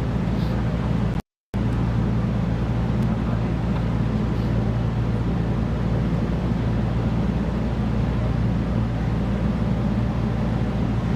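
A boat's engine running at a steady drone, with a short dropout to silence about a second in.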